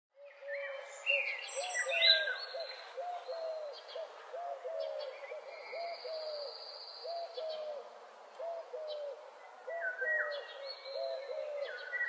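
Several birds calling together. One low note, rising then falling, repeats about two to three times a second in short runs. Higher chirps, quick trills and a long thin whistle come and go above it.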